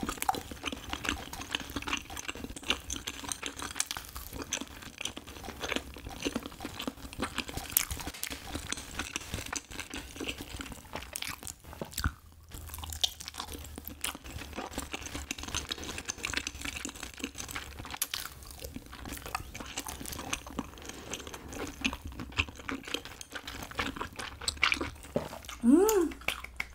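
Close-up chewing of soft, chewy cheese-filled rice cake (tteok): sticky, wet mouth sounds and small clicks. A short rising hummed "mm" comes near the end.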